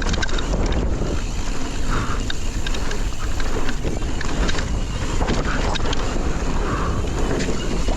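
Wind buffeting the microphone of a mountain bike rider in motion, with many small clicks and rattles from the bike on the trail.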